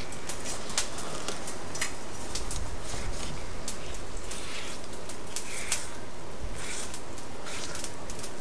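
Kitchen knife slicing and skinning a fish fillet on a wooden cutting board: irregular light clicks and scrapes of the blade against the board over a steady background hiss.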